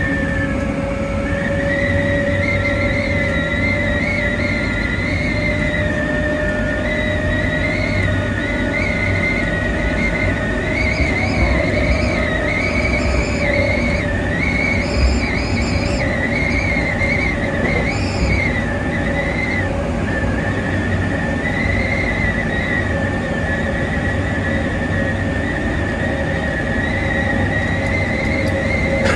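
Hankyu 5100 series electric train running along the line: a steady rumble of wheels on rails with a steady whine. A high, wavering squeal rises and falls, strongest from about ten to nineteen seconds in.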